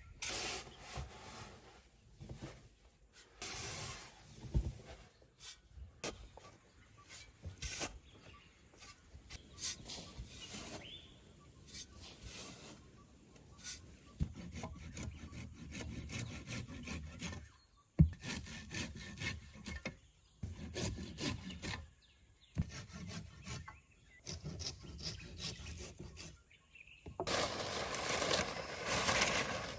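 Irregular scraping and rubbing of wood with scattered sharp knocks, as wood is worked and handled by hand; one louder knock about midway, and denser scraping near the end.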